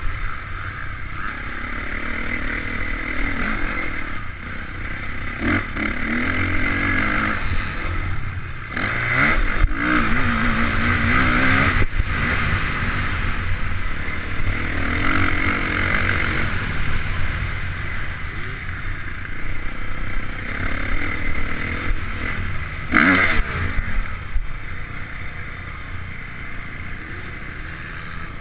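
Honda CRF450 motocross bike's single-cylinder four-stroke engine, heard on board, revving up and down over and over, with a steady rumble of wind noise. A few sharp knocks come through, the loudest about 23 seconds in.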